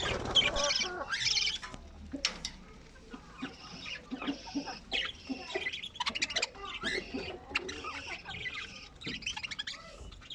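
Budgerigars chirping and chattering in quick, overlapping high calls, with a few sharp clicks among them. The calls are loudest in the first second or so.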